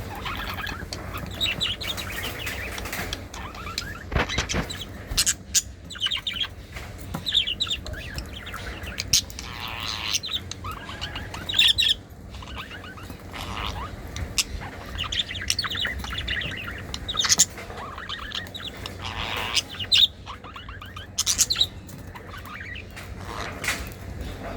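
Lovebirds chirping over and over in short calls, with scattered sharp clicks and knocks among them.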